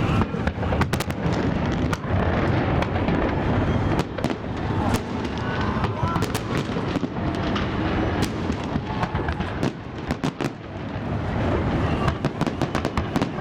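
Festive fireworks salute bursting: many sharp bangs and crackles, some single and some in quick clusters, over a steady low hum.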